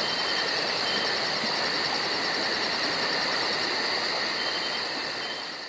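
Insect chorus: steady high trilling with a rapid pulsed chirp about five times a second, fading out near the end.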